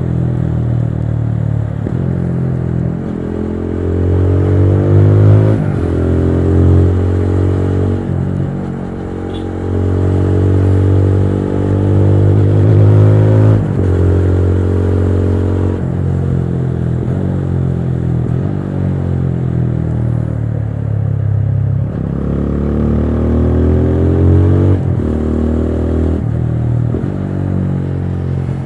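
TVS Apache RTR 200 4V single-cylinder engine being ridden hard, its pitch climbing under throttle and dropping at each gear change, several times over. Around two-thirds of the way through the revs fall away as the throttle eases, then build again.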